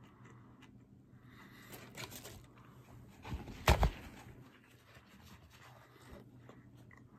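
Faint chewing and mouth sounds of someone eating a sandwich, with a light rustle about two seconds in. About three and a half seconds in come a few loud knocks as the recording device is grabbed and moved by hand.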